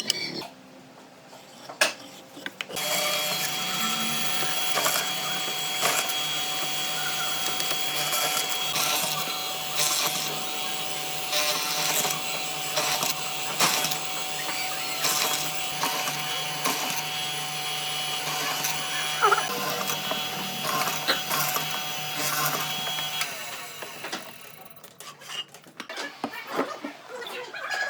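An electric power tool runs steadily with a high whine, with many short knocks and rattles from the work. It starts a few seconds in and stops several seconds before the end.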